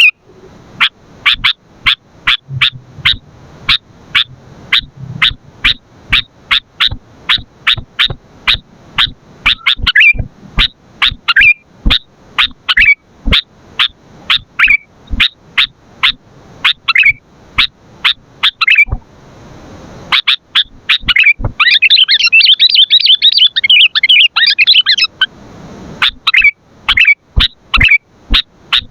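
Sooty-headed bulbul (kutilang) calling: a long series of sharp, short chirps, about two or three a second, some ending in a hooked note. After a brief pause about two-thirds through comes a few seconds of dense, fast chattering.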